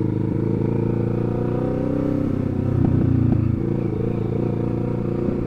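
Sport bike engine running at low road speed, with a brief rise in revs about three seconds in before easing back.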